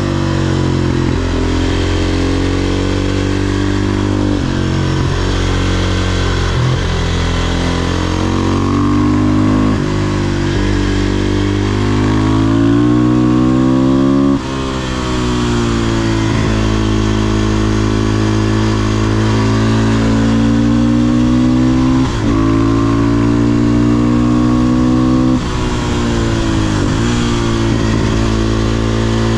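500cc supermoto's single-cylinder engine under way, its note climbing and falling as the rider accelerates and eases off. The sound drops out briefly about halfway through and twice more later, as at gear changes.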